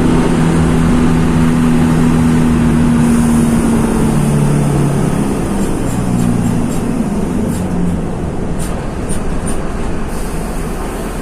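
Mercedes-Benz OF-1724 bus's OM-926 LA six-cylinder turbodiesel running under way; its engine note drops in pitch about four seconds in and fades after about eight seconds as the bus eases off. A few faint high ticks near the end.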